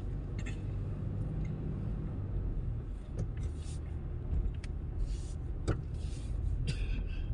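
Steady low rumble of a car on the road, heard from inside the cabin, with a few faint clicks and rustles.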